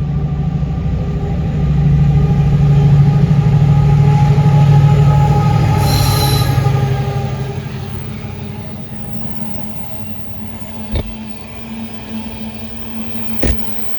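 Class 70 diesel locomotives hauling a freight train past at speed: a loud, steady diesel engine note that peaks a couple of seconds in, then fades after about eight seconds into quieter rolling of the wagons, with a couple of sharp knocks from the wheels near the end.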